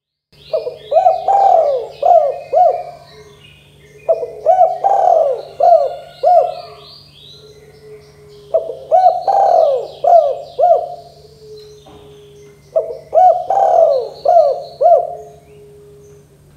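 Spotted dove (tekukur) cooing: four repeated phrases of four or five coo notes, about one phrase every four seconds. Fainter high chirps from small birds are heard with it.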